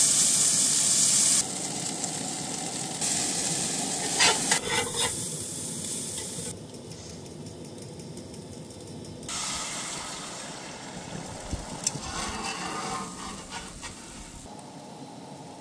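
Breakfast frying in a pan over a camp stove, sizzling steadily; the sizzle is loudest for the first second and a half, then drops in level in a few abrupt steps, with scattered clinks of a utensil against the pan.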